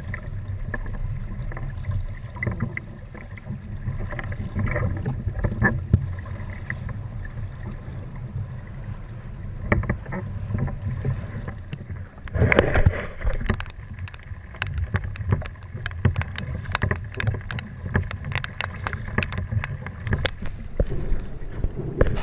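Small boat moving across water, with a steady low rumble of wind and water on the microphone. A short rush of noise comes about halfway through, followed by many sharp clicks and knocks.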